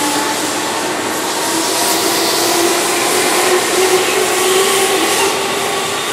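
Keihan electric commuter train running past a station platform: steady wheel-on-rail noise with a low motor hum, continuous throughout.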